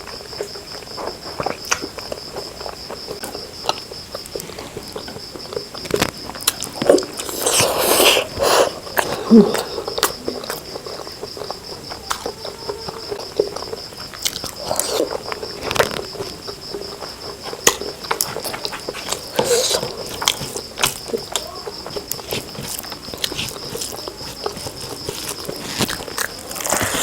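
Close-up eating sounds: chewing and mouth noises with scattered clicks and crackles, over a steady high-pitched whine.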